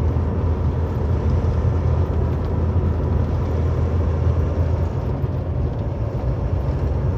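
Steady engine drone and road noise heard from inside a vehicle's cab while driving at highway speed, a constant low rumble with tyre hiss above it.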